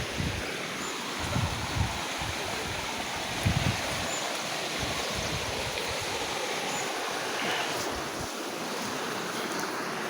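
Rain-swollen river rushing steadily, a continuous even roar of fast water, with a few brief low rumbles of wind on the microphone early on.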